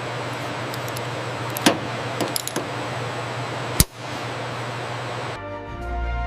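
A steady hiss with a low hum under it, broken by a few sharp clicks, the loudest about four seconds in; music with held notes starts near the end.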